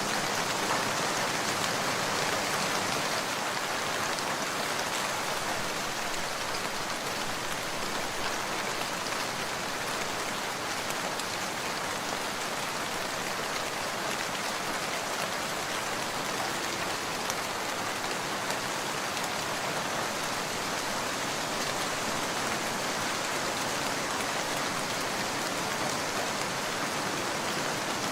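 Steady rain falling, a dense, even patter that holds at the same level throughout.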